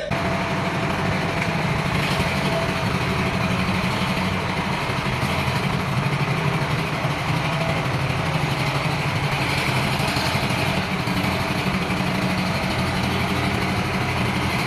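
Diesel engine of a 125 hp wheeled tractor running steadily with a low hum, starting abruptly.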